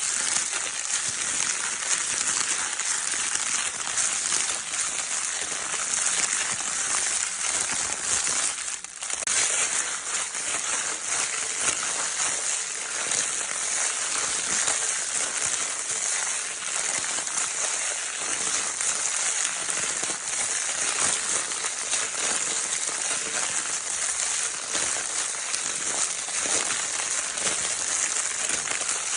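Crinkle paper in a baby's soft toy being crinkled continuously: a dense, steady crackling rustle, briefly dipping about nine seconds in.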